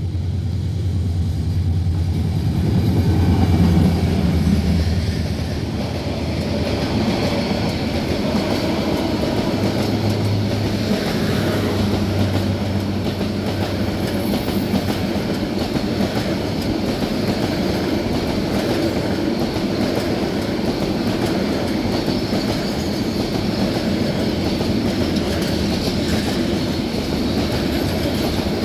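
Express passenger train on the Bangladesh Railway passing at speed behind a diesel locomotive. The locomotive's low engine note is loudest a few seconds in as it goes by, then the long rake of coaches rolls past with a steady rumble of wheels on rail.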